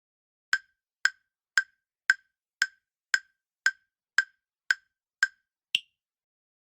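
Quiz countdown timer sound effect: eleven sharp ticks at about two per second, the last one higher in pitch, marking the time to answer running out.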